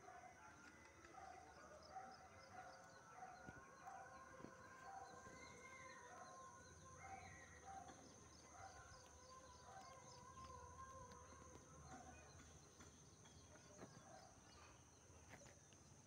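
Faint birdsong: one bird repeats a short note about twice a second and stops a few seconds before the end. Other birds call around it, over a steady high insect drone.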